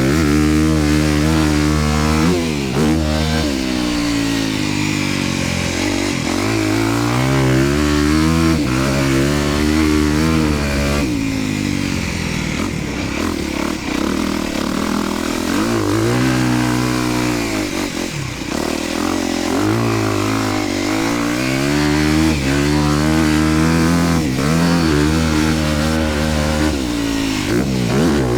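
Dirt bike engine being ridden hard, its pitch climbing and dropping again and again as the throttle opens and closes and the gears change.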